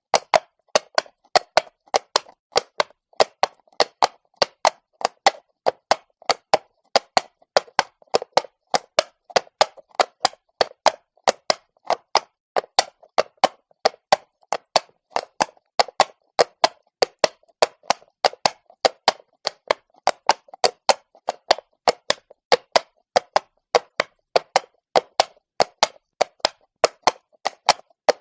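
Horse's hooves striking stone at a walk, a steady rhythm of sharp, hard clops about three a second, some louder than others.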